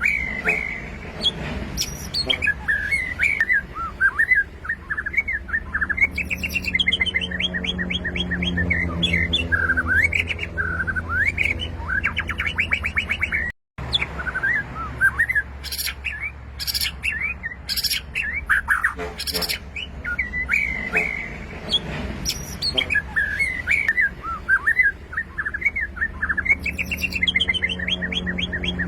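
White-rumped shama singing a long run of varied, rapid whistled phrases and trills over a low steady hum, broken by a brief moment of silence about halfway through.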